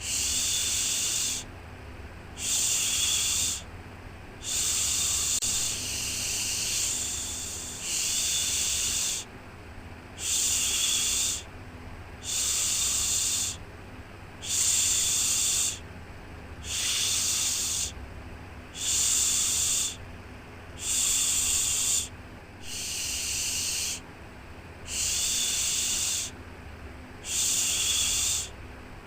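Shushing, a 'shhh' sound for soothing a baby, repeated in even bursts of about a second and a half with short breaks between, roughly one every two seconds. A faint steady low hum lies underneath.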